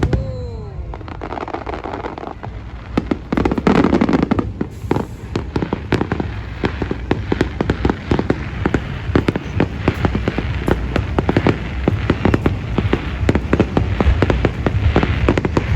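Grand finale of a Japanese fireworks display: aerial shells bursting in a rapid, unbroken barrage, with dense crackling between the bangs. A falling whistle sounds just at the start.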